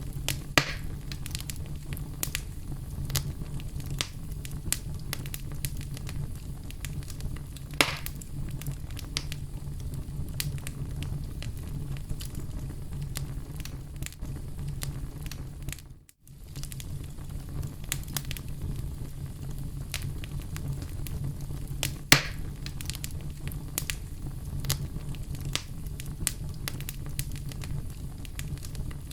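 Oak logs burning in a fireplace: a steady low rumble with frequent crackles and three louder pops. The sound briefly drops out to silence about halfway through.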